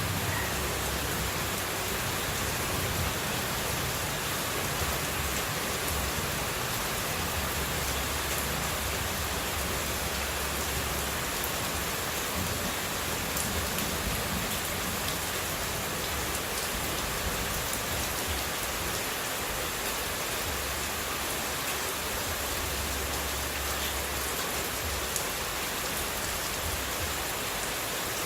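Steady water noise: an even hiss with faint scattered ticks and a low rumble that comes and goes.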